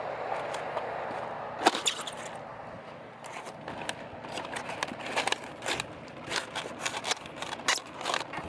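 Crisp cabbage leaves crunching and snapping as a huge cabbage head is picked, with one sharp snap about two seconds in and a run of irregular crackling snaps in the second half. A steady background noise fades away over the first few seconds.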